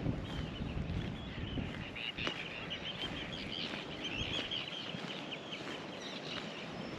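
Small birds chattering in a quick run of high calls for a few seconds, over footsteps and light outdoor background noise.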